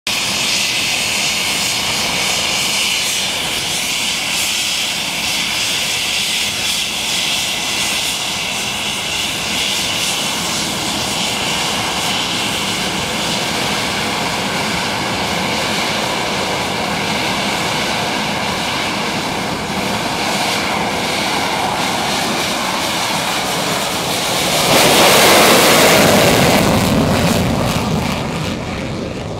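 English Electric Lightning's twin Rolls-Royce Avon turbojets running at speed during a fast taxi: steady loud jet noise with a high whine. It swells to its loudest about 25 seconds in, then fades.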